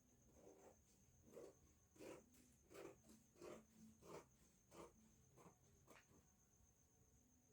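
Scissors snipping through a paper pattern, cutting out a marked waist band: a faint run of about ten snips, roughly one and a half a second, stopping about six seconds in.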